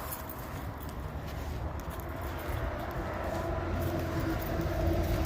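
A motor vehicle's engine hum over a low rumble, growing louder in the second half.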